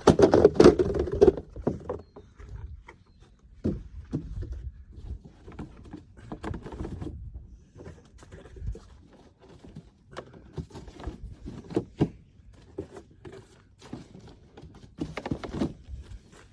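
Scattered knocks, scrapes and rustles from building materials being handled, with a loud clatter in the first second or so.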